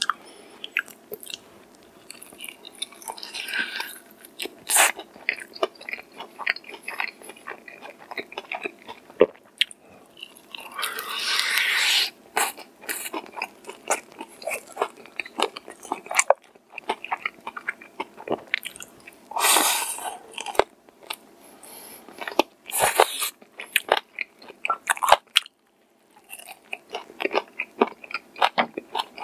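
A person biting and chewing crispy-coated fried chicken: a steady run of small chewing clicks, broken by several louder crunches.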